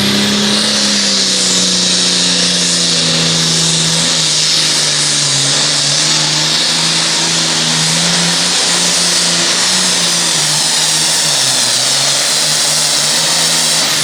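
International Harvester pulling tractor's diesel engine running at full throttle as it pulls the weight-transfer sled down the track, with a loud high hiss over the engine. The engine note sags around ten seconds in and then picks up again.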